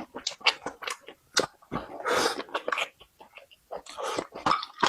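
A person chewing and crunching food close to the microphone, with many short sharp crunches and mouth clicks and a couple of longer noisy smacks or slurps about two and four seconds in.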